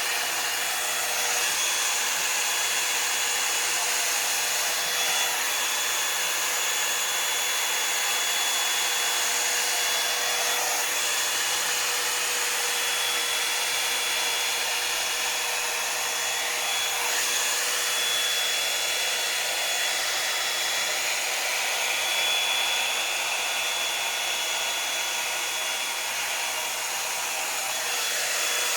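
Revlon One-Step hot-air brush hair dryer running steadily, a constant rush of blown air with a thin, steady high whine.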